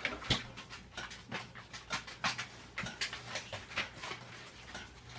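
A tabby kitten playing in a bowl with her tail, making a string of soft, irregular taps and scrapes.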